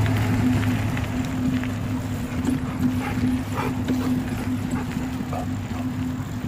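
Mountain bike riding over rough ground: a rattly, clattering noise with scattered knocks, over a steady low hum.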